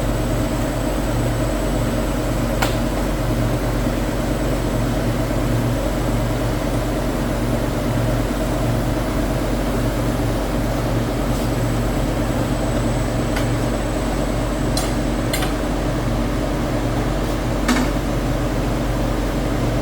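Steady drone of running factory machinery, with occasional sharp clicks or knocks, five of them spread across the stretch.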